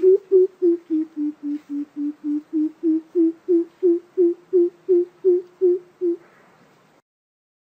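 Coucal (bìm bịp) giving its deep hooting call: a long, even series of low hoots, about three a second, sinking a little in pitch and then rising again before stopping about six seconds in. It is the call used as a lure to draw coucals in.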